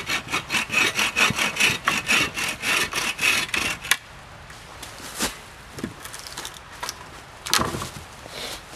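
Hand folding saw cutting through a tree trunk with quick back-and-forth strokes, about five a second, stopping about four seconds in. A few separate knocks follow.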